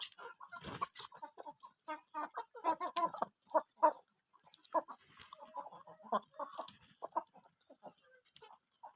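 Chickens clucking: a busy run of short, irregular calls.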